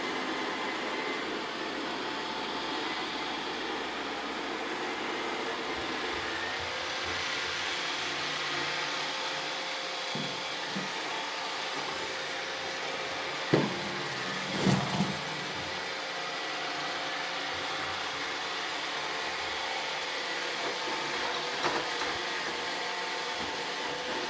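iRobot Roomba robot vacuums running with a steady hum, picking up confetti. A few short sharp knocks come about halfway through and once more near the end.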